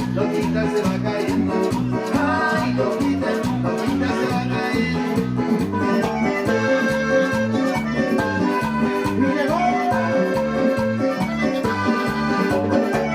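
Latin tropical dance music played live by a group with keyboards, a held melodic lead over a steady bass-and-percussion beat.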